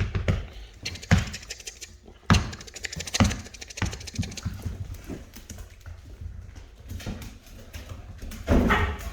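Rottweiler puppies playing and scuffling in a small room: repeated thumps and knocks, with a short cry near the end.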